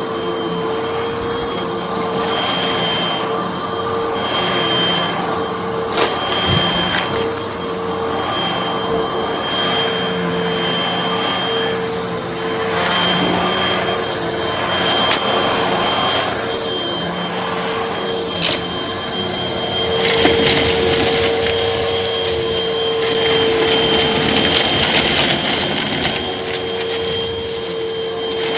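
Hoover vacuum cleaner running steadily with a constant motor whine, sucking up small crunchy debris that clicks and rattles through the hose now and then. About twenty seconds in, the suction noise grows louder and harsher as more debris goes in.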